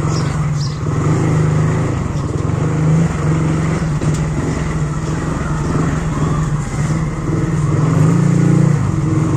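Small hatchback's engine running steadily as the car creeps along at low speed, a low hum that swells a little a few times.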